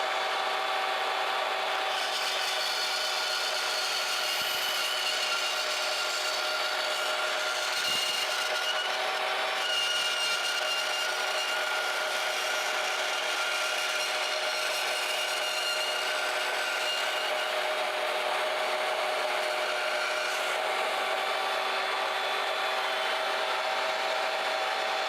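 Harbor Freight portable band saw, mounted upright in a table, running with a steady motor whine while its blade saws through metal. The blade is an old one that still cuts well.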